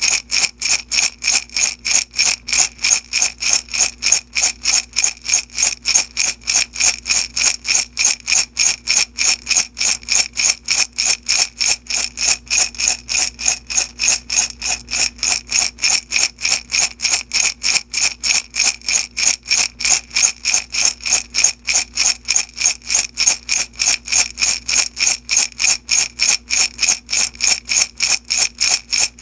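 Small beads shaken back and forth in a glass jar, a steady rattle of about three to four shakes a second.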